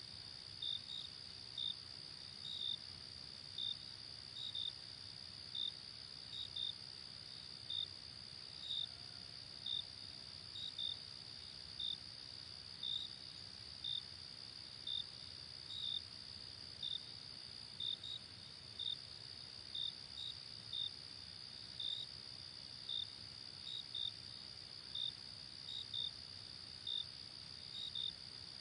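Night insects: a steady high trill runs throughout, with short chirps repeating about once a second, some of them in quick pairs.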